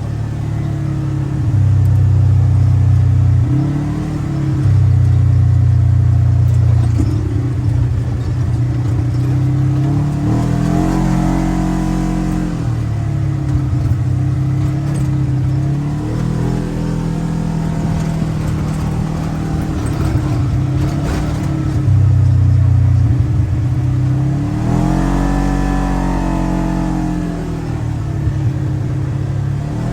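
Polaris General XP 4 1000 side-by-side's 999 cc parallel-twin engine running under load, its pitch rising and falling several times as the throttle is worked, heard from the back seat.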